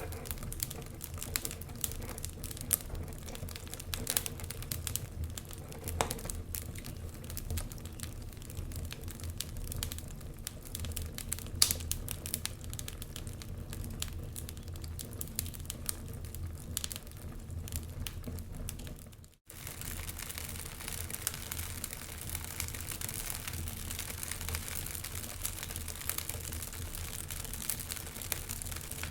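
Wood fire crackling in a fireplace: many quick irregular pops and snaps over a steady low rumble. The sound cuts out for a moment about two-thirds of the way through.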